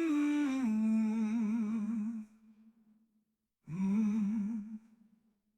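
A lone singing voice humming two long, wavering notes with vibrato, the first lasting about two seconds and the second about a second, with no instruments behind it.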